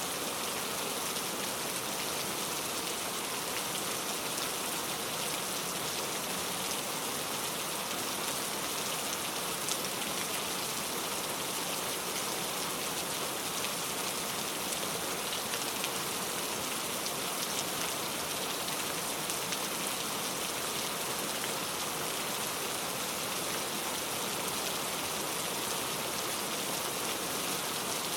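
Steady rain falling without thunder, an even hiss with many small droplet ticks.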